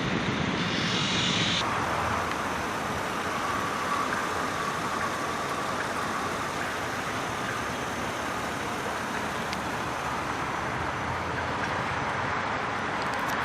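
Steady running noise of a motor vehicle outdoors, with a short hiss about a second in.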